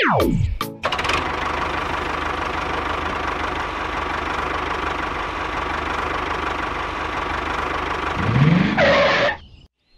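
A quick falling whoosh, then a tractor engine running steadily with a knocking chug. Near the end it rises in pitch as if revving, then cuts off suddenly.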